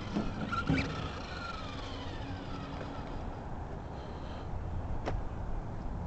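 Brushless electric motor of a Tamiya TT-01E radio-controlled truck whining, its pitch falling over the first few seconds as it slows. Wind rumbles on the microphone throughout.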